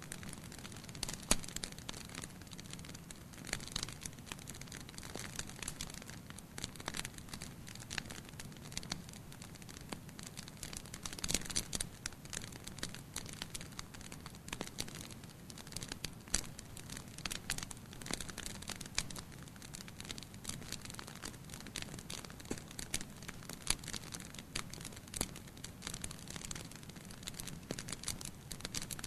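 Wood fire burning in a fireplace, crackling with many irregular sharp pops and snaps over a soft steady hiss.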